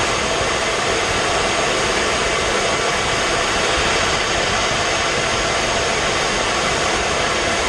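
Jet aircraft noise: a steady, loud, even hiss with faint steady tones and no change in pitch.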